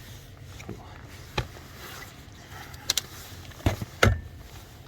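A few sharp plastic clicks and knocks as car interior trim pieces and clips are handled and pressed into place, the loudest near the end, over a steady low hum.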